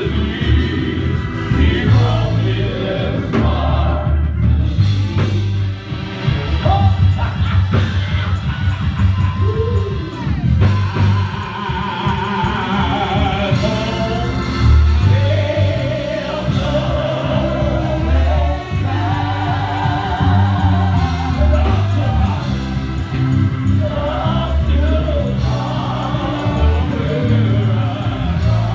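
Gospel music with singing over a steady, pulsing bass.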